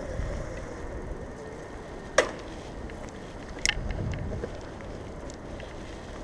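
Bicycle riding along: a steady low rumble of the ride, with two sharp clicks about two and three and a half seconds in.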